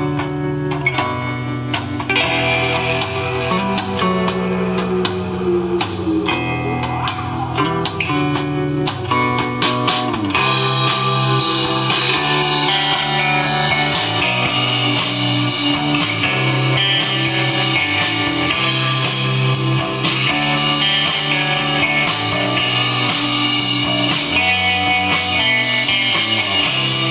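Guitar-led music with a steady beat, played from a cassette on a Sony TC-FX210 stereo cassette deck.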